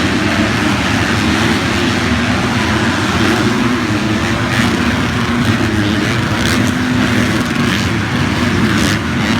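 Motocross dirt bike engines running hard, a loud, steady drone whose pitch wavers.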